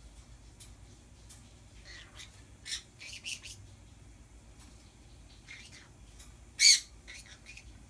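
Pet birds calling in short chirps and squawks, with one loud, sharp screech about two-thirds of the way through.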